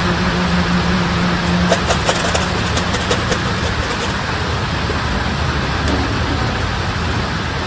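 Steady downpour in a thunderstorm, with a motor vehicle's low engine hum under it that fades out about two seconds in. A run of sharp ticks and taps follows between about two and four seconds in.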